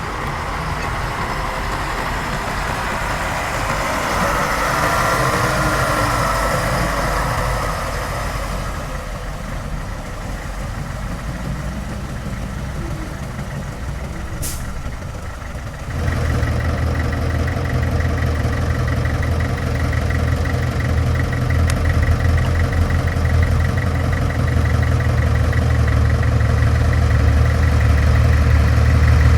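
Heavy diesel machinery at work. A rushing noise for the first several seconds, a brief high squeal around the middle, then from about halfway a diesel engine running steadily and louder, with a fast even ticking in its sound.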